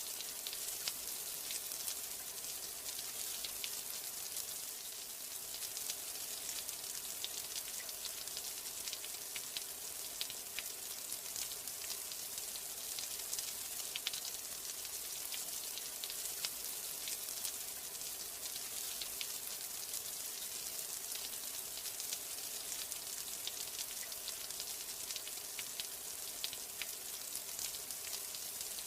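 Steady rain: an even hiss dotted with many sharp ticks of single drops.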